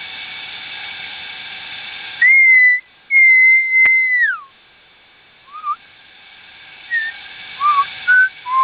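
A bird singing in loud, clear whistled notes: about two seconds in, a short note and then a long held note that falls away at its end, followed by a string of shorter rising and falling whistles.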